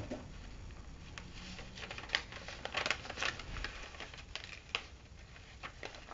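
A sheet of paper being folded and creased by hand: irregular crisp crinkles and rustles, busiest about two to three seconds in.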